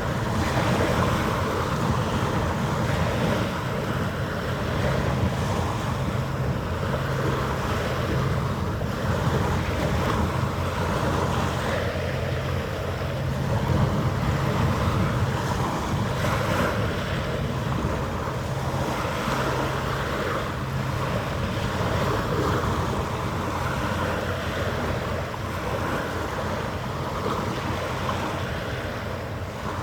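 Wind buffeting the microphone: a steady, gusty low rumble and hiss.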